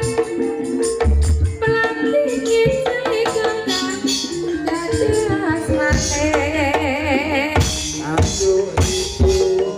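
Live ebeg accompaniment music from a Javanese ensemble: hand drums struck in a steady pattern under a sustained melodic line, with a high wavering melody about six to seven seconds in.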